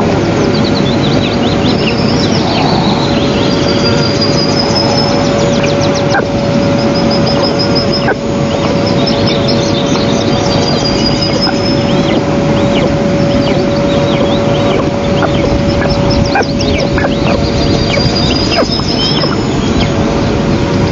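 Small birds chirping and trilling on and off at a high pitch, over a steady loud noise and a constant low electrical hum from the nest camera's audio.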